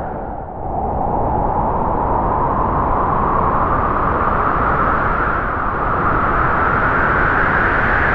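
Strong wind howling through trees: a loud, steady rush with a whistling pitch that dips about half a second in, then slowly rises and holds high.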